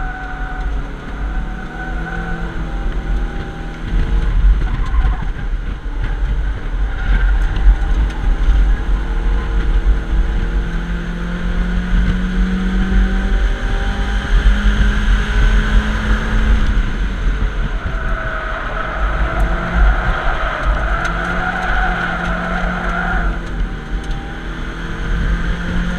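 1994 Mazda MX-5's 1.8-litre four-cylinder engine at race pace, heard from inside the cabin. Its pitch climbs as it pulls through the gears and drops as it shifts and backs off for corners, over a heavy low rumble of wind and road noise.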